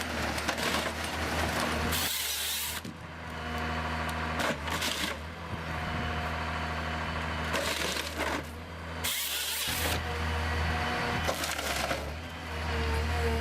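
Wood cracking and splitting in several loud bursts, over a steady engine hum from the machine doing the work.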